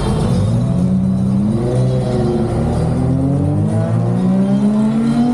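Cars launching down a drag strip, one engine's pitch climbing hard, dropping at an upshift about a second and a half in and again about three seconds in, then climbing once more.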